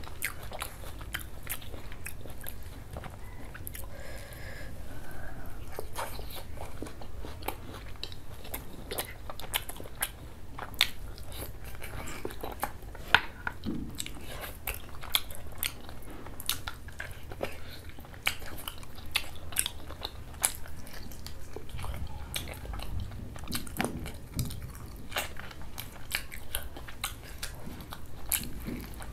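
A man chewing mouthfuls of mutton and chicken liver and gizzard curry with dal puri: wet chewing and biting with many short, sharp smacks and clicks of the lips and tongue, one of them much louder about thirteen seconds in.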